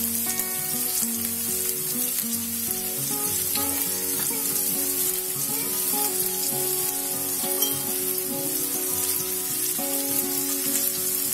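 Sliced onion sizzling steadily in oil in a frying pan as cauliflower florets are dropped in among it, with a few faint ticks.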